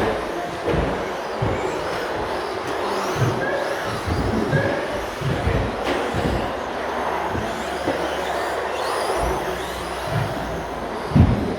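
Radio-controlled stadium trucks racing: a steady wash of noise with faint whines that rise and fall as trucks pass, and scattered short low thumps.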